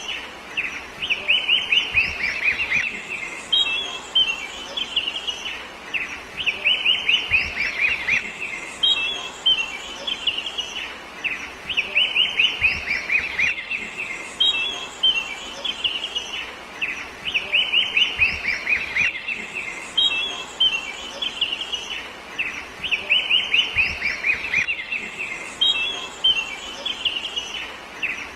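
A bird singing the same phrase over and over, about every six seconds: a quick run of short, falling notes, then a brief higher twitter.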